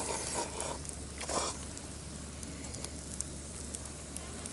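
Wood fire burning in a fire pit, crackling steadily with small scattered pops, and a couple of brief louder noises in the first second and a half.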